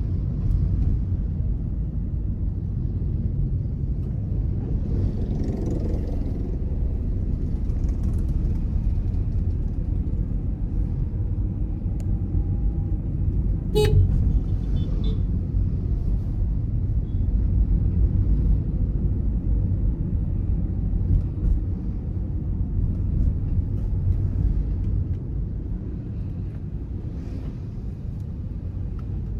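Car on the move: a steady low rumble of engine and road noise, with one sharp click about halfway through.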